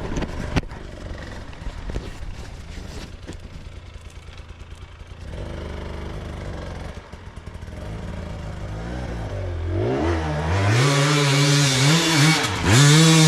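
Dirt bike engine, faint and low at first, then from about ten seconds in revving hard and growing loud, its pitch rising and falling with the throttle as the bike climbs a steep sand hill.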